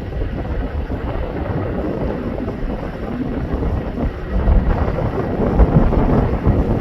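Strong gusty wind buffeting the microphone: a loud, uneven low rumble, a little louder in the second half.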